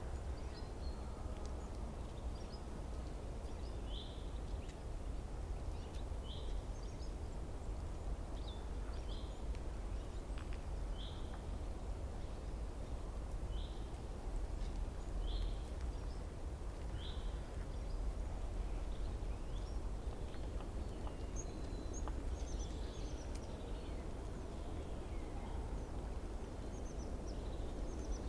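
A small bird repeating a single short, high chirp every second or two over a steady low outdoor rumble, with busier twittering near the end.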